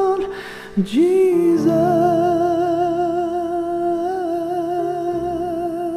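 Hymn singing: a voice sings a short phrase, then holds one long note with steady vibrato over sustained low chord accompaniment that changes a couple of times.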